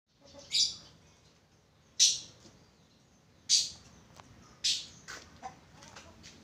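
A bird chirping: four short, loud, high calls about a second and a half apart, followed by a few fainter ticks.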